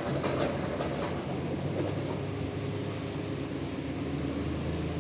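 Sawmill machinery running with a steady hum, with a few sharp knocks in the first second.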